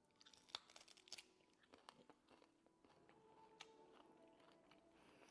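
Near silence with faint chewing: a few soft mouth clicks while eating.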